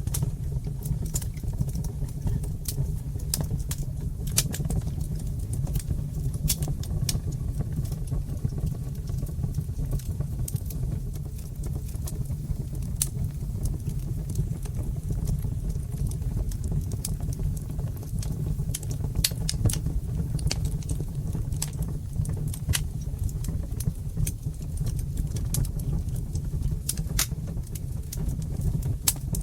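Fireplace fire crackling: frequent irregular sharp pops and snaps, some in quick clusters, over a steady low rumble.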